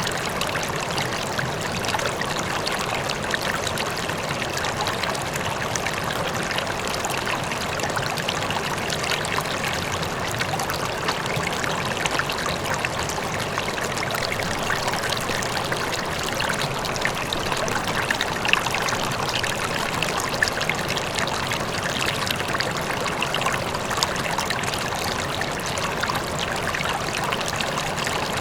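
A river flowing, its water babbling and splashing steadily, with the rush of a waterfall beneath it.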